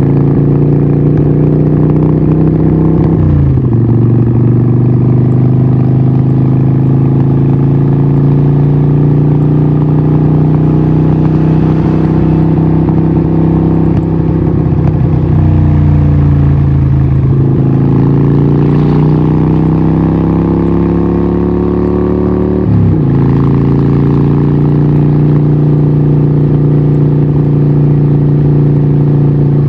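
Harley-Davidson 1200 Nightster's 1200cc Evolution V-twin running through a Vance & Hines exhaust under way. Engine pitch climbs slowly as the bike gathers speed, with a sharp pitch drop at an upshift about three seconds in and another near the end. Around the middle it eases off and then pulls again.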